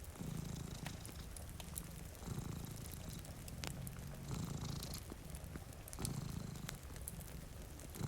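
Domestic cat purring close up, the purr swelling and easing with each breath about every two seconds. Sharp pops and crackles of a wood fire and a faint hiss of rain run beneath it.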